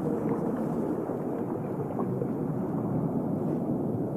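Steady underwater ambience: a low, even watery rushing with a few faint scattered clicks.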